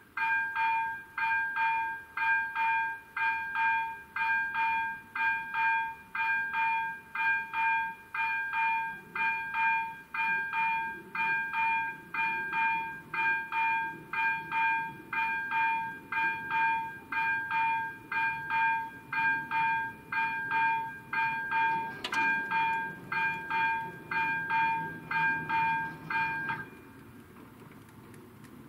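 Railway level-crossing warning bell ringing about twice a second, stopping abruptly near the end. A low rumble builds underneath from about halfway, with one sharp click late on.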